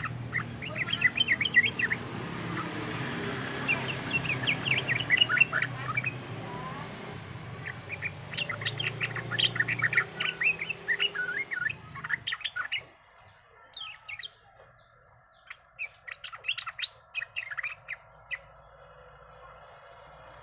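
Yellow-vented bulbul (trucukan) singing in repeated bursts of quick, chattering notes. A low hum behind the first two-thirds stops abruptly about 13 seconds in, and the song phrases carry on over a quieter background.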